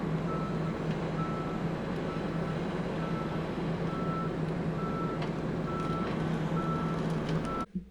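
Heavy machine's backup alarm beeping about once a second over its steady diesel engine; both cut off abruptly near the end.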